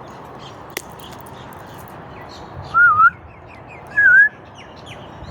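Two short wavering whistles, about a second apart, over faint chirping of small birds.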